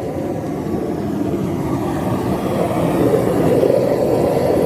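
Propane torch burner firing into a small melting furnace: a steady, noisy rush of burning gas that grows slightly louder toward the end.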